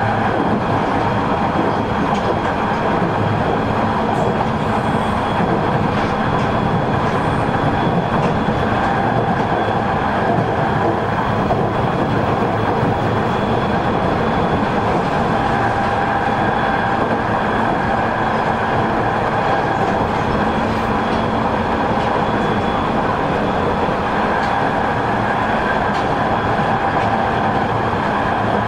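Running noise heard inside a JR East 209 series 2100-subseries electric commuter train between stations: a steady rumble of wheels on rail, with a few faint steady tones above it.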